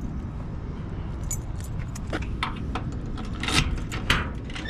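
A bunch of car keys jangling and clicking as they are handled to unlock and open the trunk lid, in a series of sharp metallic jingles over a steady low background rumble.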